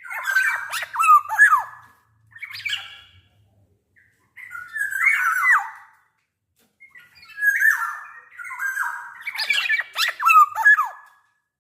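Black-naped oriole giving harsh, nasal squawking calls in bouts a second or two long, separated by short pauses, with a few quick falling notes among them.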